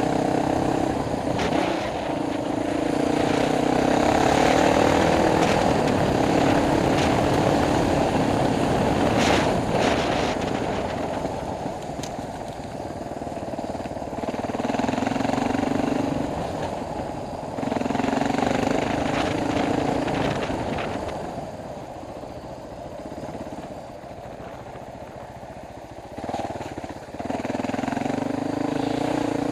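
Dual-sport motorcycle engine heard from the rider's helmet camera on rough off-road trail, the throttle opening and closing so that the engine note rises and falls again and again. A few sharp knocks are heard around the middle. The engine eases off for a few seconds near the end, then picks up again.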